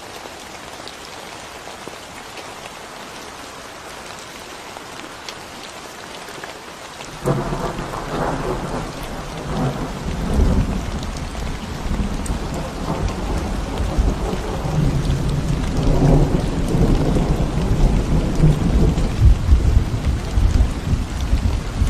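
Steady rain falling on a concrete road. About seven seconds in, thunder starts suddenly and rolls on in a long, uneven rumble that grows louder toward the end, over the rain.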